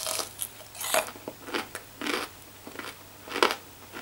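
Biting into and chewing a crispy, breadcrumb-coated fried chicken strip: a crunch as the bite goes in, then irregular crunches while chewing, the loudest near the end.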